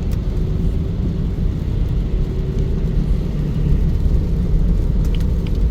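Steady road and engine rumble of a car driving, heard from inside the cabin, with a few faint ticks about five seconds in.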